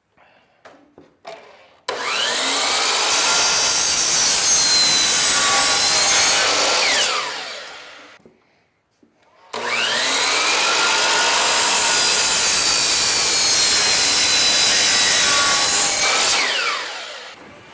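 A power saw cutting edge-glued pine board twice. Each time it whines up to speed, cuts steadily for about five to seven seconds, then winds down.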